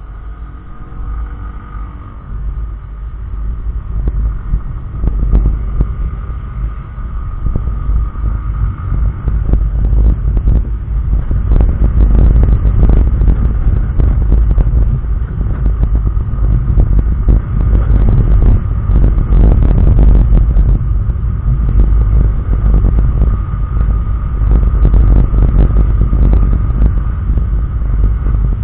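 Wind buffeting on a helmet-mounted microphone while riding a SYM Joymax Z+ maxi-scooter, with the engine note faintly under it. The rumble grows louder over the first ten seconds or so as speed picks up, then stays heavy and ragged.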